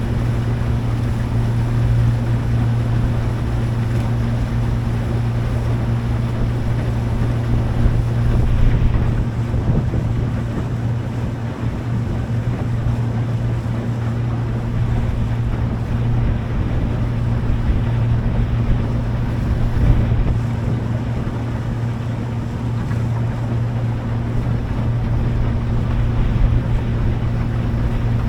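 Motorboat engine running at a steady speed, a constant low drone, with wind noise on the microphone and water noise.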